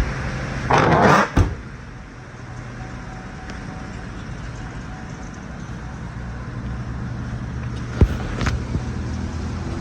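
A steady low engine-like hum, broken by a brief loud rush of noise about a second in with a sharp click right after, and a sharp knock near the end.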